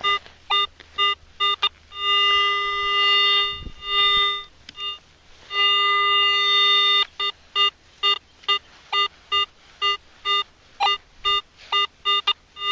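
Metal detector's electronic audio tone signalling a target under the coil: short beeps about twice a second as the coil sweeps across it, three long held tones in the middle, then short beeps again. The signal repeats from swing to swing, which marks a real buried metal target, possibly trash, a button or a coin.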